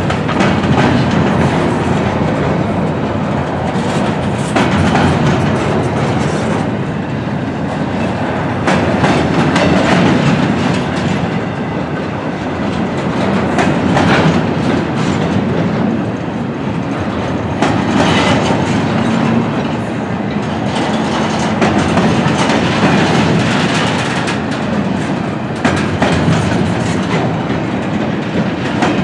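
A freight train's empty double-stack well cars rolling past close by, with a steady rumble and a continuous clickety-clack of wheels on the rails.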